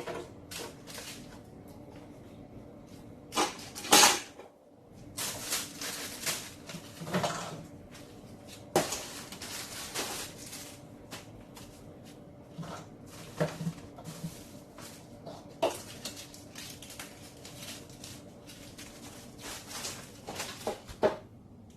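Food containers, jars and bottles knocking and clattering as a refrigerator is emptied, with stretches of rustling. The sharpest knock comes about 4 seconds in.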